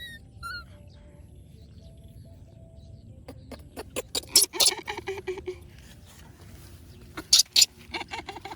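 A young monkey's brief high squeaks, followed by runs of sharp clicking and smacking noises, loudest about four to five seconds in and again in two strong clicks near the end.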